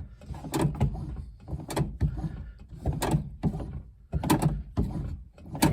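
A series of irregular mechanical knocks and clunks, about ten in the space of a few seconds, with no engine running.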